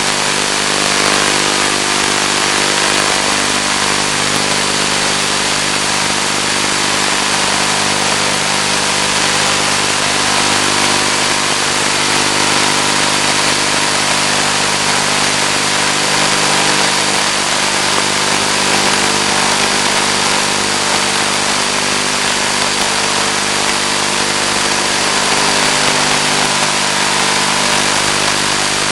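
Steady drone of the Finwing Penguin's electric motor and propeller at constant throttle, carried through the FPV video link's audio with heavy radio hiss and a thin high steady whine.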